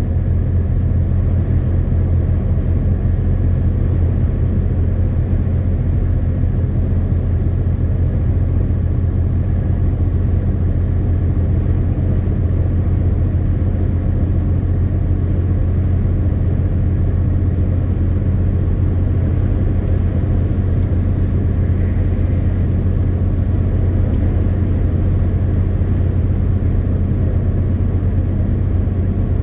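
MAN TGX 18.520 truck's diesel engine and road noise while driving, a steady low drone that holds an even pitch and level throughout.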